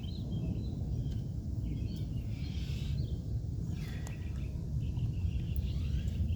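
Outdoor ambience: a steady low rumble with scattered bird chirps over it.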